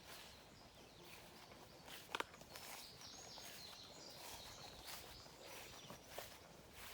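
Near silence: faint outdoor ambience, with two sharp clicks about two seconds in and a few faint high chirps.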